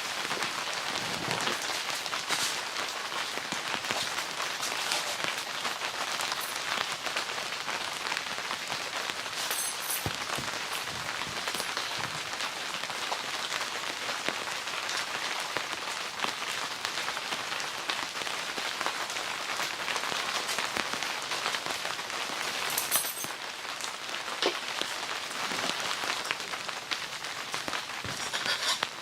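Steady rain falling, heavy enough to make a constant hiss, with many separate drops striking a surface.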